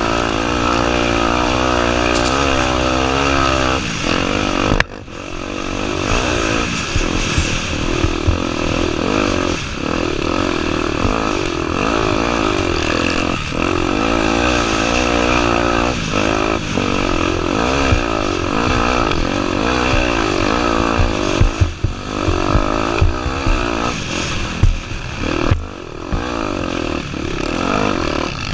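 Honda Tornado 250 single-cylinder four-stroke engine being ridden hard off-road, revs rising and falling constantly with a brief drop about five seconds in. Sharp knocks and clatter from the bike over rough ground come often in the second half.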